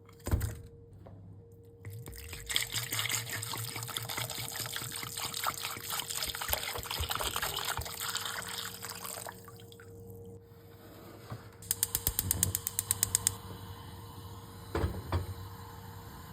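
Water running and filling a container for several seconds. After a pause comes a quick run of sharp clicks, about eight a second, with a knock near the start and another near the end.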